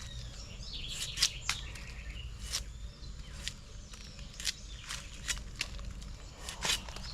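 Birds chirping in the background, with irregular sharp clicks or knocks scattered through, about a dozen in all.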